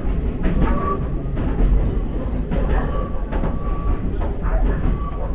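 Jōshin Dentetsu electric train running, heard from inside the car: a steady rumble with light clicks from the wheels. A few short, thin high-pitched squeals come and go.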